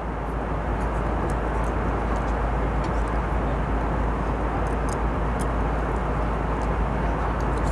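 Steady cabin noise of an airliner in cruise flight: a deep, even rumble and hiss with a few faint ticks.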